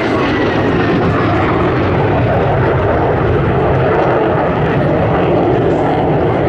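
Jet aircraft engines running in a loud, steady rush with a deep rumble underneath, as an aircraft flies its display.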